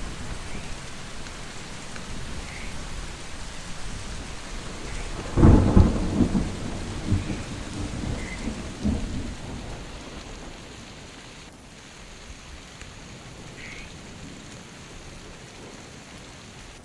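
Steady heavy rain with a loud thunderclap about five seconds in, rumbling away over the next few seconds.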